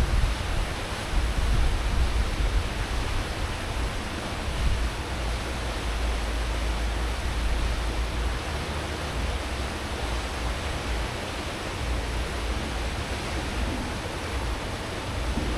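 Churning wake water rushing steadily behind a cruise ship's stern at full speed, stirred up by the propellers, with a deep low rumble underneath.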